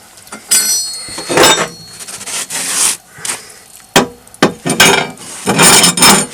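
A hand scraper pushing coals into a stove's firebox: scraping strokes with clinks and knocks, including a ringing clink about half a second in. The strokes come quick and repeated near the end.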